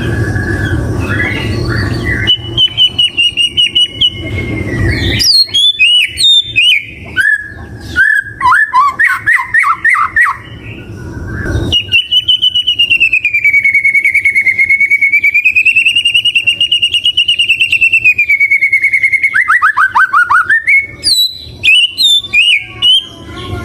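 White-rumped shama (murai batu) singing: quick varied notes and fast falling sweeps, then a long wavering whistled note held for several seconds that breaks into a rapid run of falling notes. A low rumble of background noise lies under the first few seconds.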